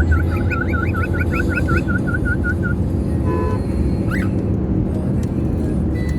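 Lutino cockatiel whistling a quick run of about a dozen looping notes, about four a second, fading toward the end of the run, followed a couple of seconds later by a single short chirp. A steady low rumble runs underneath, and a short horn-like tone sounds about halfway through.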